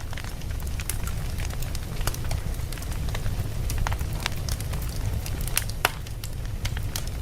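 Wood fire burning in a fireplace: logs crackling and popping at irregular intervals over a steady low rumble of the flames.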